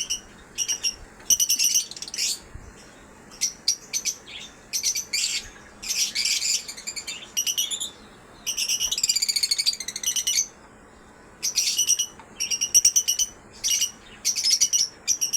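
Pet birds chirping in quick, high-pitched bursts with short pauses between them, and a longer warbling run about halfway through.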